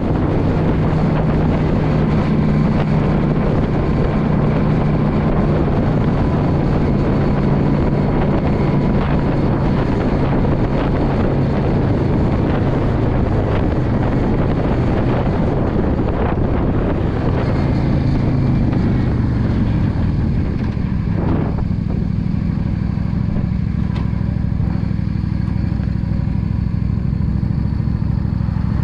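Yamaha V Star 650's air-cooled V-twin engine running under way with wind rushing past. About twenty seconds in the wind noise drops and the engine settles to a lower, steadier note as the bike slows.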